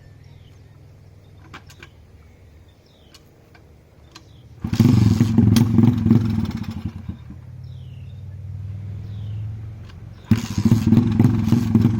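Thumpstar 125 pit bike's single-cylinder four-stroke engine idling, then revved hard twice: once about four and a half seconds in for about two seconds, and again from about ten seconds in. It sounds mean.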